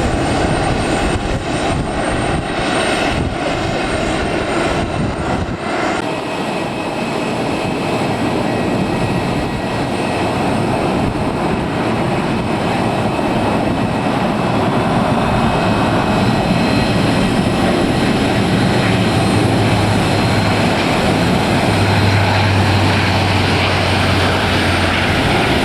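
Airliner's engines heard close by: a loud, steady rushing roar with a thin high whine, growing a little louder and gaining a low hum in the second half.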